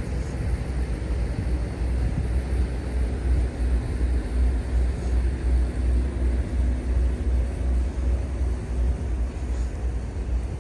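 Steady low rumble of outdoor city background noise, heaviest in the deep bass, with a faint steady hum over it.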